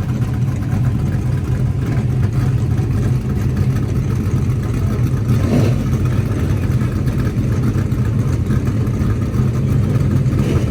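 Dirt modified race car engines running with a steady low drone, without revving.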